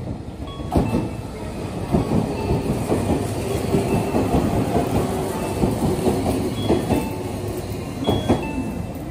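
Tobu 500 series Revaty electric train passing slowly through a station, its wheels clattering in quick knocks over rail joints and pointwork as it changes tracks at reduced speed. A steady low tone runs under the clatter from about two seconds in to about seven seconds.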